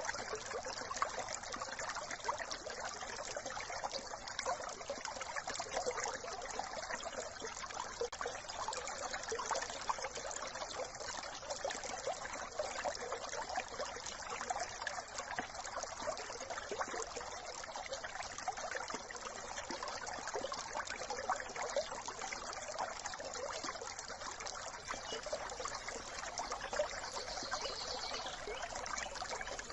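Small brook trickling steadily, a continuous babble of running water.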